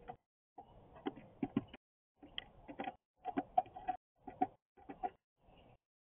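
Birds at a feeder: quick taps and clicks mixed with short chirps, coming in choppy bursts that start and stop abruptly.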